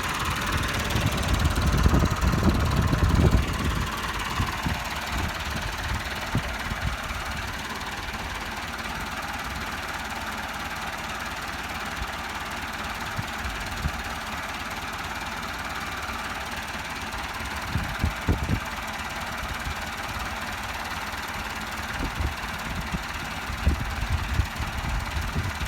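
Diesel tractor engine running, louder and working hard for the first few seconds with its pitch falling, then settling to a steady run. A few brief low thumps come about two-thirds of the way through and near the end.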